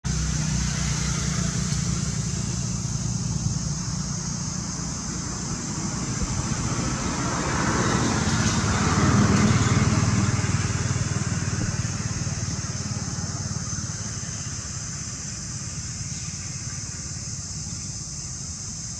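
A motor vehicle passing: its noise swells to a peak about nine seconds in and then fades, over a steady high hiss.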